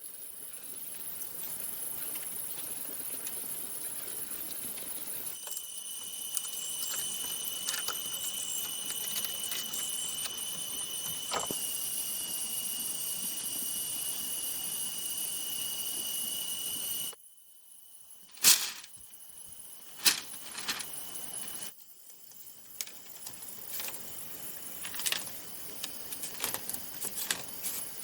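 Steady, high-pitched insect drone of the forest, changing at cuts. Partway through it drops away, leaving a few sharp, loud knocks, then returns with scattered knocks near the end, typical of hand tools striking bamboo.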